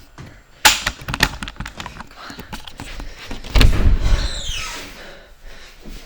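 Household knocks and rattles, then a heavy thump about three and a half seconds in, followed by a short falling creak or squeak. These are the kind of night-time noises the recording is meant to catch.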